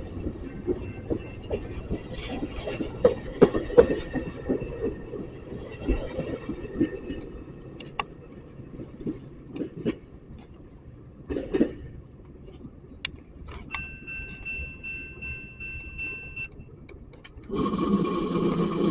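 A train running on the track: a low rumble with irregular clicks and clunks from the wheels and cars. About fourteen seconds in, a faint steady two-note tone sounds for roughly three seconds, and near the end a loud, steady chord of several tones begins.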